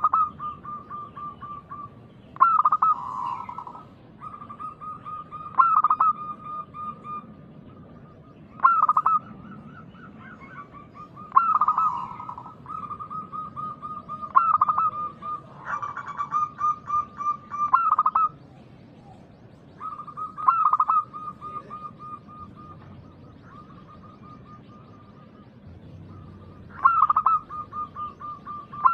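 Zebra dove (perkutut) cooing, a phrase about every three seconds, each a loud note running into a quick string of softer beats, with a longer gap of a few seconds past the middle.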